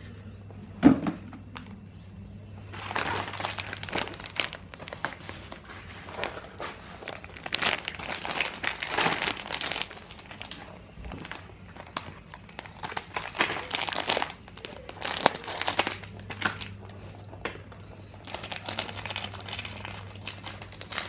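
Plastic snack wrappers crinkling in irregular bursts as small packets are handled and opened, after one sharp click about a second in, over a faint steady low hum.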